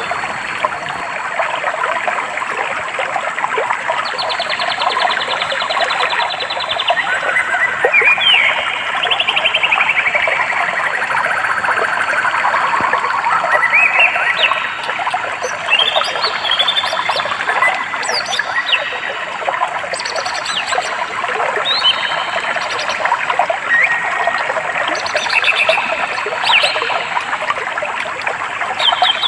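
Running stream water with many birds chirping and singing over it: rapid trills and short falling runs of notes come and go throughout.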